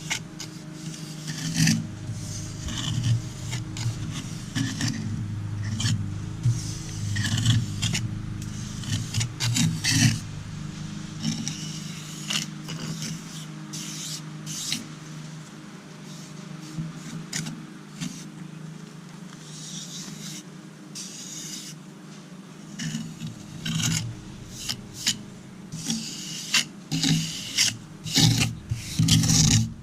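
Hand tool scraping and rubbing on concrete and mortar in repeated, irregular strokes, some short and sharp, others drawn out.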